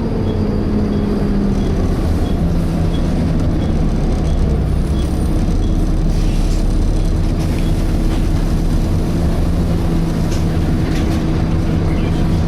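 Volvo B7TL bus heard from inside the saloon: a low engine drone with a steady whine from the engine and cooling fan, falling in pitch over the first two seconds and then holding steady.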